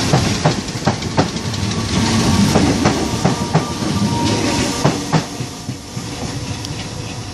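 Merseyrail electric multiple unit passing close as it pulls away: a steady rumble with a run of sharp clacks from the wheels crossing rail joints and points, dying away after about five seconds.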